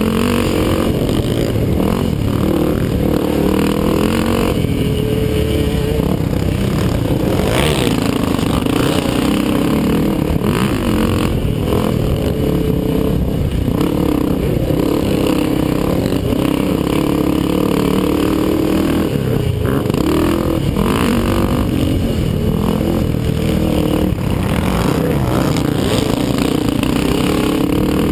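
Race quads' engines running hard on a motocross track, the pitch rising and falling continually as they rev, shift and back off.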